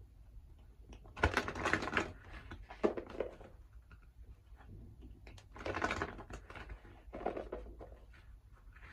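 A deck of oracle cards being shuffled by hand. There are two bursts of rapid papery clicking, about a second in and again near six seconds, with lighter ticks between them.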